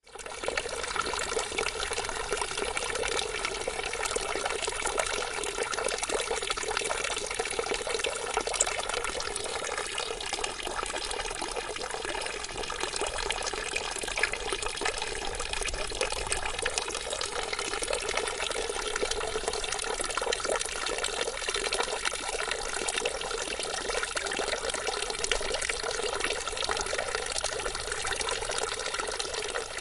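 Water fountain splashing steadily, a continuous even spatter of falling water.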